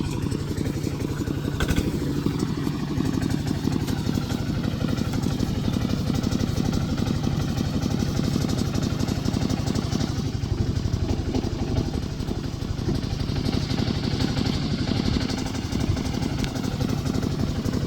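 Tractor engine running steadily with fast, even firing.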